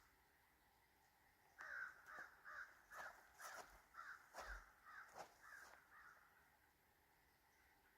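A bird calling outdoors: a series of about ten short, harsh calls at roughly two a second, starting a second and a half in and fading away after a few seconds.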